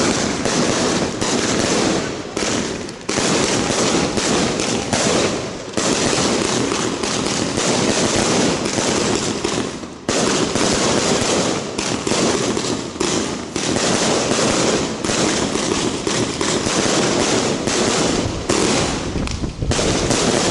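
Japanese set-piece fireworks (shikake hanabi) burning: a loud, dense, continuous crackling rush of spraying sparks. It dips briefly about 3, 6 and 10 seconds in, and again near the end.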